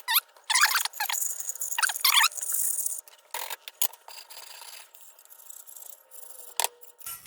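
Parts of an old battery lantern being handled and scraped against each other: a few short, loud squeaky scrapes in the first two or three seconds, then quieter rubbing and a single sharp click near the end.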